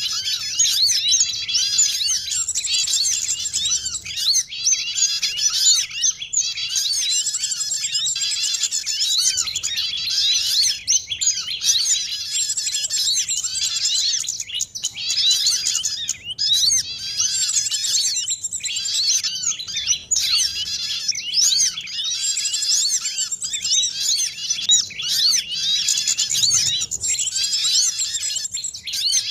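Bird-lure recording of many small songbirds chirping and trilling at once, a dense, unbroken chorus of quick high calls, used to draw small birds in for trapping.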